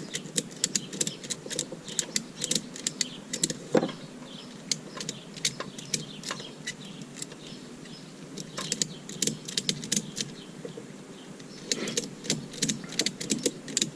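Ratchet tie-down strap being cranked to tension it on a motorcycle's rear swing arm: rapid clicking of the ratchet mechanism in several bursts, with brief pauses between strokes.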